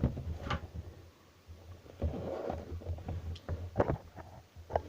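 Handling of a boxed action figure: scattered light clicks and knocks with a short stretch of rustling packaging about two seconds in, over a low steady hum.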